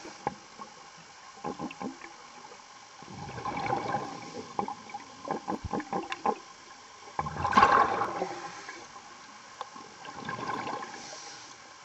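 Underwater gurgling from a diver's regulator: bursts of exhaled bubbles every few seconds, the loudest a little past the middle, with scattered sharp clicks and knocks between them.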